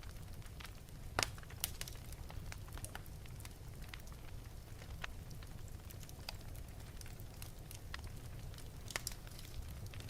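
Wood fire burning in an open fireplace, crackling with irregular sharp pops over a steady low rumble of the flames; the loudest pops come about a second in and again near the end.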